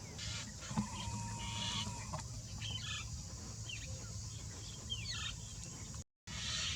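Birds calling: short calls and several downward-sliding notes over a steady hiss, with a brief cut-out of all sound near the end.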